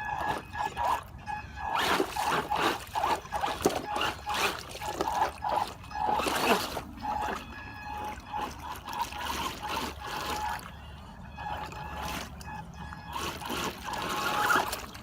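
Water splashing and churning as a small RC amphibious truck drives through it. Under the splashing runs a thin, steady whine from its brushed electric motor, breaking off now and then.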